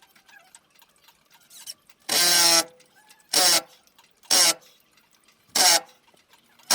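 Hand saw cutting through wood in rhythmic strokes, about one a second, the first stroke the longest, starting about two seconds in.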